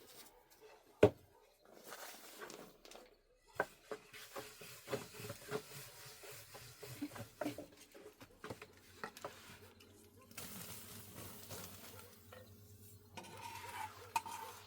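Knocks and light clatter of pots and utensils being handled, with one sharp knock about a second in.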